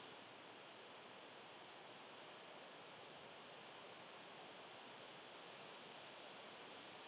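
Five faint, very short, high-pitched bird chip notes scattered over a steady outdoor hiss.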